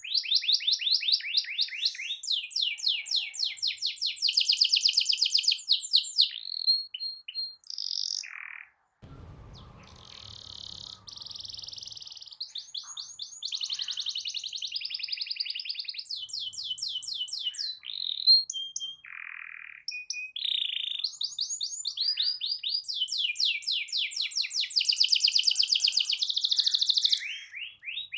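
Domestic canary singing long, fast rolling trills, phrase after phrase with short pauses between.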